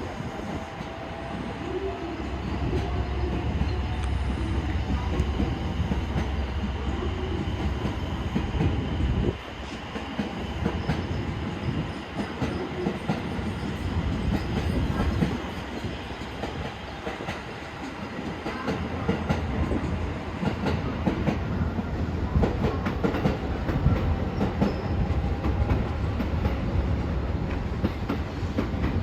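Passenger train running, heard from on board: a steady low rumble with wheels clacking over rail joints.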